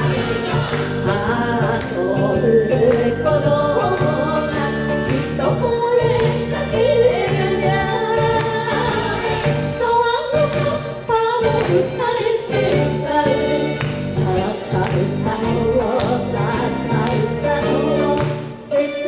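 Two women singing an enka ondo song in duet over a band arrangement with horns and Japanese taiko drums.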